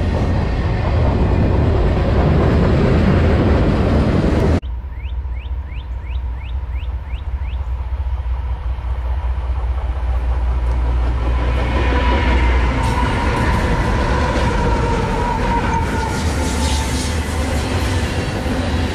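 Freight train passing at trackside: heavy diesel locomotive rumble and rolling cars. The sound cuts off abruptly about four and a half seconds in and picks up again as a second stretch of rolling train noise, with wavering high squeals from the wheels in the second half.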